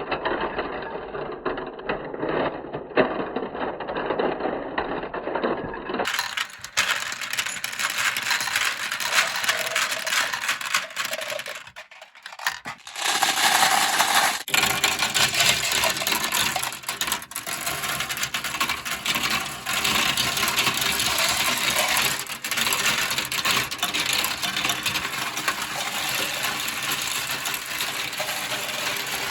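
Many marbles rolling and clattering down a plastic marble run slope, a continuous rattle of clicks and knocks, with a brief lull about twelve seconds in.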